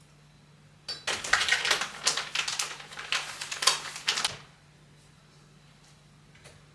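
A quick, dense run of light clicks and taps, starting about a second in and lasting about three and a half seconds.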